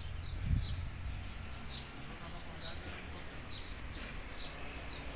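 A small bird chirping over and over, short high notes that drop slightly in pitch, about two a second, over a low background rumble.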